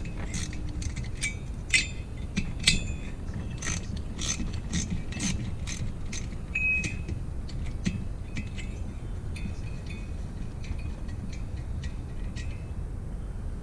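Hand ratchet wrench clicking in short runs of strokes as fasteners come off a two-stroke motorized-bike engine's cylinder head. The clicks are sharp and irregular at first, then lighter and quicker in the second half.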